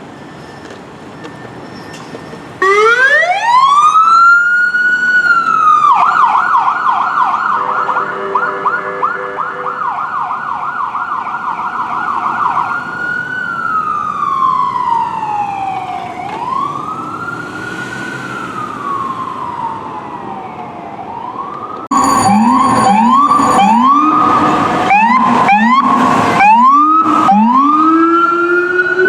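Fire apparatus electronic siren starting up a few seconds in: a rising wail that holds high, then a fast yelp, then slow wailing sweeps. Near the end a second, louder siren cuts in with a rapid warble.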